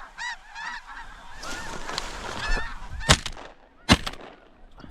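Snow geese calling with repeated high honks, then two shotgun blasts a little under a second apart, starting about three seconds in; the shots are the loudest sounds. The gun is a Benelli shotgun.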